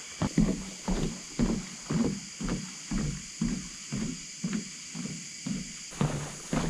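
A hiker's footsteps walking at a steady pace, about two steps a second, over a steady high hiss.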